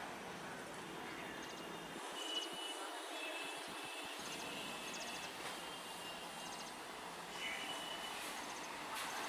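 Electric multiple unit local trains running toward the listener along the line, heard as a faint steady rumble and hiss. Several short, thin high-pitched tones sound over it.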